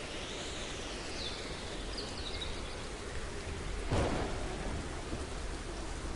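Steady rain falling, with a few short bird chirps in the first half and a sharp clap of thunder about four seconds in.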